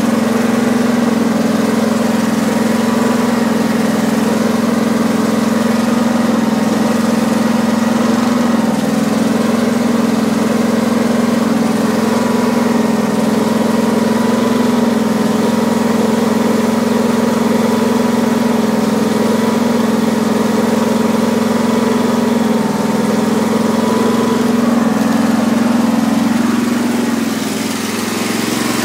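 Briggs & Stratton opposed-twin engine on a riding lawn tractor running at a steady speed, dipping slightly in level near the end.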